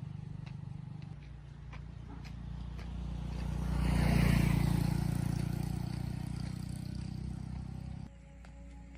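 A motor vehicle's engine running steadily as it passes by: it grows louder to a peak about four seconds in, then fades away and drops off sharply near the end.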